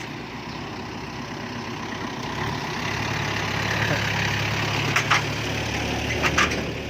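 Truck engine running with a steady low hum that grows louder about two seconds in. Two quick pairs of sharp clacks sound near the end.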